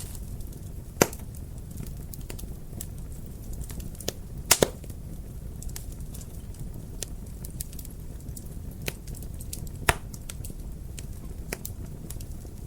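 Wood fire crackling in a fireplace: a steady low rumble of the flames with scattered small snaps and a few sharp pops, the loudest about a second in, two together near the middle and one about three quarters of the way through.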